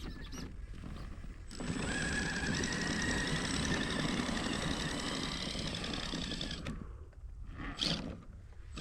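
Electric motor and geartrain of an RC crawler truck running under load for about five seconds, with a steady high whine, followed by a short burst near the end.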